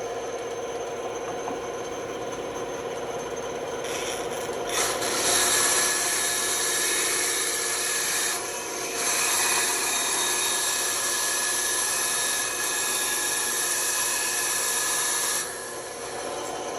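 Band saw running, its blade cutting through wood. The cut starts a few seconds in and eases off briefly about midway. It ends shortly before the close, leaving the saw running on its own.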